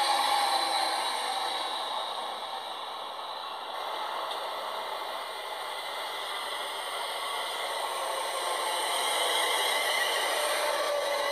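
Trains running through a station: a continuous rushing, rattling rail noise that is loudest as the first train passes, eases off, then builds again as the next train comes in alongside the platform. The sound is thin, with almost no low end.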